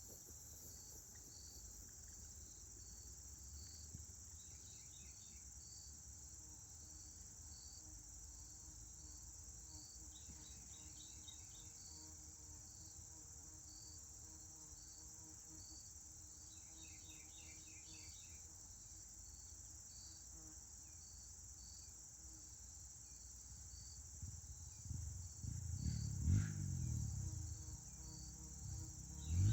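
Crickets and other insects chirping steadily, with regular repeating chirps and three brief trills. Near the end, a louder low rumble with a sharp knock comes in.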